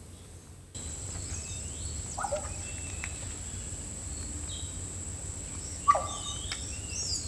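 A blackbird giving strange, swooping, gurgling calls, a crazy noise: one about two seconds in and a louder one about six seconds in, with a steady high insect drone starting about a second in.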